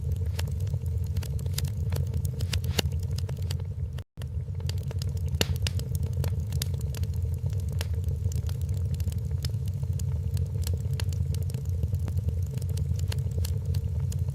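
Wood fire crackling in a fireplace: frequent irregular sharp pops and snaps over a steady low rumble. The sound cuts out for a split second about four seconds in.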